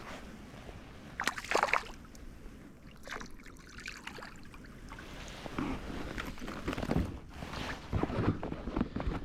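Water sloshing against a kayak, with irregular knocks and scrapes of gear being handled aboard, thickening over the second half.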